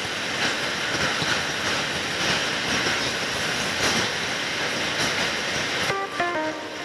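Steady rushing ambient noise with faint irregular clicks. About six seconds in, a plucked guitar melody begins over it, one note at a time.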